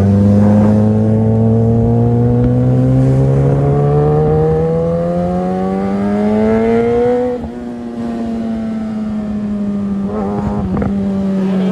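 Kawasaki ZX-10R's inline-four engine pulling under steady throttle, its pitch rising smoothly for about seven seconds. The throttle then closes and the engine note sinks slowly as it rolls off.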